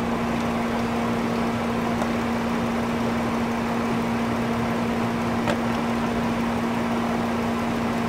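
Ford Windstar's V6 engine idling steadily, a constant hum with one steady tone running through it.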